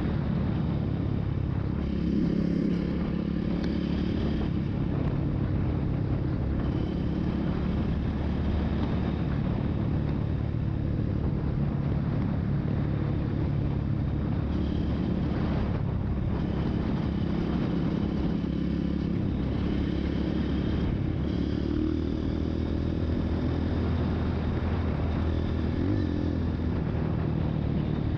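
Single-cylinder trail motorcycle engine running steadily, its pitch staying fairly even with small rises and dips.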